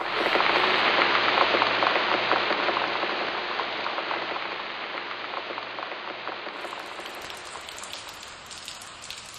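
Rain sound: a dense patter of many small drops that starts abruptly and slowly fades away.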